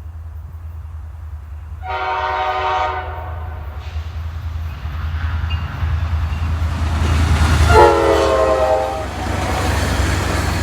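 Approaching commuter train sounding its multi-note air horn twice, a blast of about a second near the start and another longer one about eight seconds in, over a low engine and rail rumble that grows louder as it nears.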